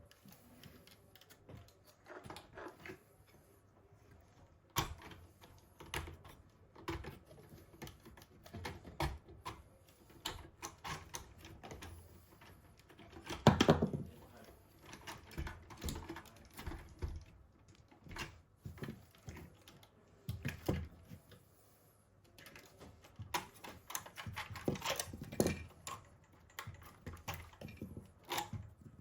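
Irregular small clicks, taps and knocks of small hard parts and tools being handled on a work surface during repair of an RC model half-track, with a louder clatter about halfway through.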